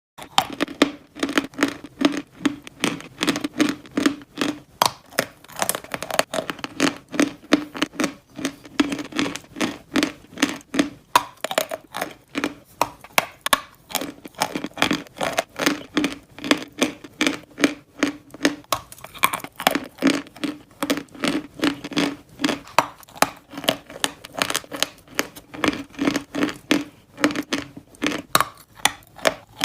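Person biting and chewing pieces of baked clay pot, a quick run of crisp, gritty crunches, a few a second.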